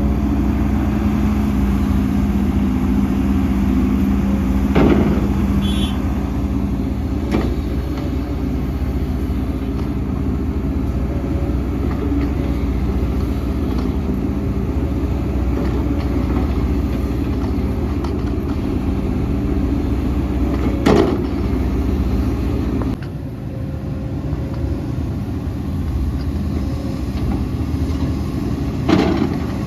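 Heavy diesel earthmoving machinery running steadily, with four sharp metallic knocks spread through. About two-thirds of the way in, the engine's low note drops and it runs more quietly.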